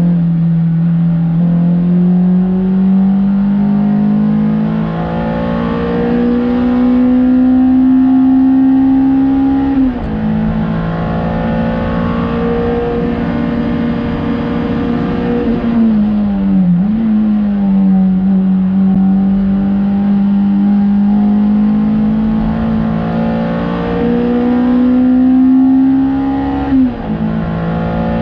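Honda Civic EP3 race car engine pulling hard on a track lap. The revs climb slowly, then drop sharply at an upshift about ten seconds in. They sag and recover around sixteen seconds as the car slows and changes down, and climb again to another upshift near the end.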